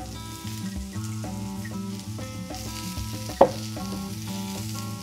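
Peppers and onions frying in a skillet with a light sizzle, under soft background music with held notes. A single sharp knock about three and a half seconds in.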